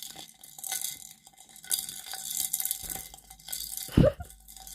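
Small toy rattling and clinking as a pet parakeet plays with it, in scattered bursts, with one loud knock about four seconds in.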